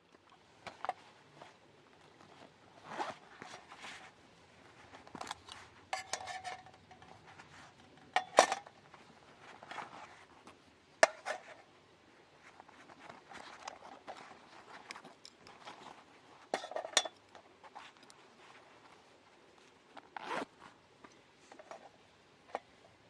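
Camping gear being handled by hand: scattered sharp clicks and light clinks with short rustles in between. The two loudest clicks come about eight and eleven seconds in.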